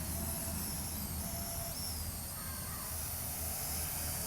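Parrot AR.Drone 2.0 quadcopter in flight, its four electric rotors humming steadily with a faint high whine.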